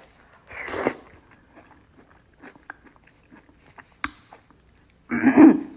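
A person eating soup close to the microphone: chewing with small wet mouth clicks, a short noisy intake near the start, and one sharp click about four seconds in. Near the end comes a brief louder sound with pitch, like a hum.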